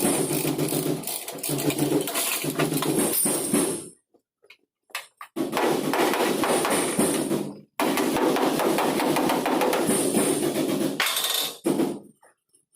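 Rapid hammering on sheet-metal body panels, as in panel-beating dents out, over a steady low hum. It stops abruptly three times: for about a second a few seconds in, very briefly midway, and for a moment near the end.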